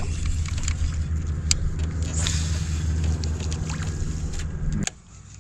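An engine running at a steady low hum, with a few light clicks and knocks over it, cutting off abruptly just before the end.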